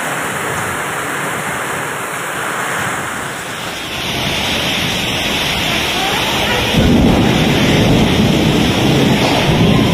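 Strong storm wind and rain: a steady rushing noise that grows louder about four seconds in, with heavy low rumbling from about seven seconds on.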